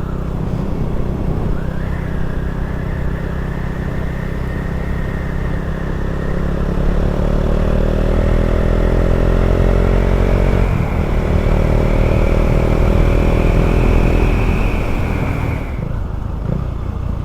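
Can-Am Ryker three-wheeler's engine under way with wind rumble, rising in pitch as it accelerates, dipping briefly about eleven seconds in, then rising again before easing off near the end. A thin high whine runs along with it.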